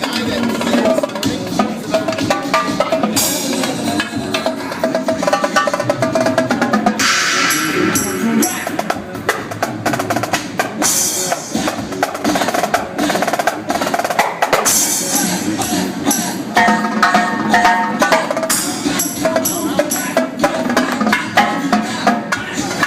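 Live drum kit, a Mapex kit with Paiste cymbals, played over a dance-music track: fast snare rolls and drum fills with cymbal crashes coming in a few times.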